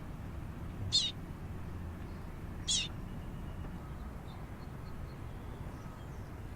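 Baby bird giving two short, high-pitched begging calls, about a second and a half apart.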